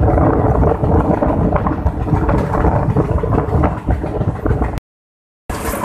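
Passenger train running at speed, heard from an open coach door: a steady heavy rumble of wheels on rail with a rattling clatter. The sound cuts out completely for about half a second near the end.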